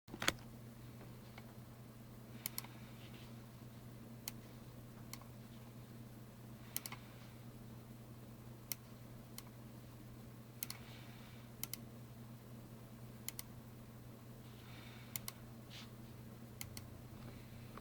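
Irregular sharp button clicks, many in quick pairs, over a steady low electrical hum.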